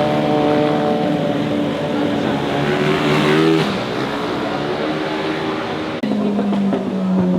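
Motorcycle engines running hard under acceleration, the pitch climbing and then dropping sharply about three and a half seconds in at a gear change. About six seconds in, the engine note switches abruptly to a different, lower one.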